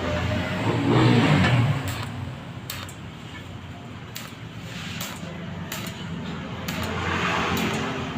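A motor vehicle engine running, swelling loudly about a second in and again near the end, with scattered sharp clicks.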